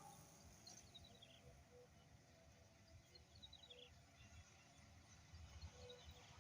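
Near silence with faint bird chirps: three short runs of high chirps, each stepping down in pitch.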